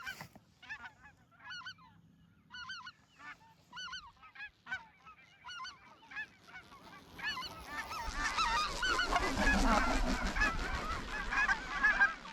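Snow geese calling with high, nasal honks: scattered single calls at first, then from about seven seconds in a dense, louder chorus of many birds honking at once.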